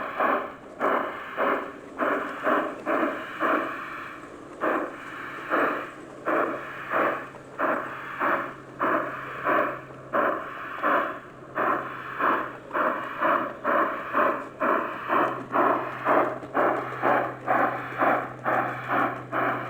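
G-scale garden railway train running, with a regular chuffing about twice a second and a steady low hum that comes in about five seconds in.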